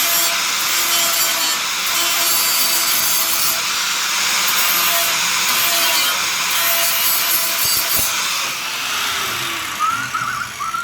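A power grinder rasping steadily across the welded steel of a car-floor repair. It stops near the end.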